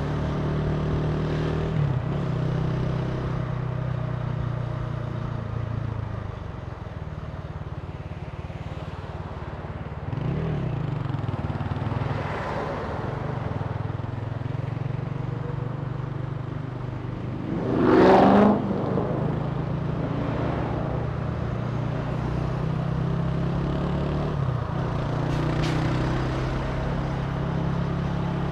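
Italika TC300 motorcycle engine running at cruising speed, its steady note dropping about six seconds in and picking up again near ten seconds. About two-thirds of the way through, a loud rush of noise lasting about a second rises over the engine.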